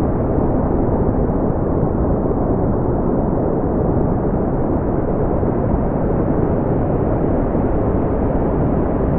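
Steady brown noise: a constant deep rumbling hiss, strongest in the low end and fading out toward the treble, with no change or events.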